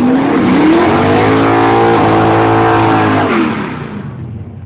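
Big-block V8 drag-racing muscle cars at wide-open throttle down the strip: the engine pitch climbs about half a second in, holds high with a brief step partway through, then falls away, and the sound fades over the last second as the cars pull away.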